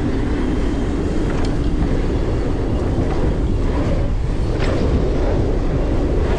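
Steady wind rush buffeting the microphone of a chest-mounted camera on a mountain bike rolling at speed down a road, with a few faint ticks.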